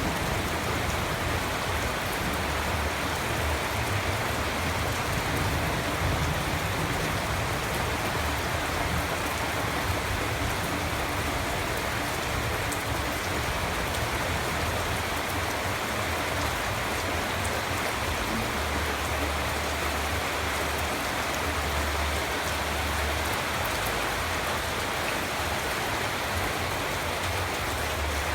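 Steady rainfall with a low rumble underneath.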